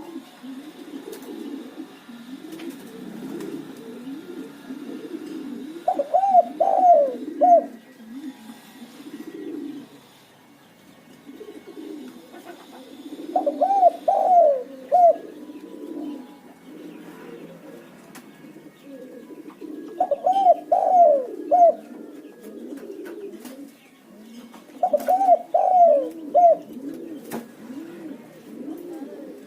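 Spotted doves cooing: four loud phrases of about four short notes each, coming roughly every six to seven seconds, over constant lower cooing from other doves. It is a lure call used to draw out and provoke spotted doves.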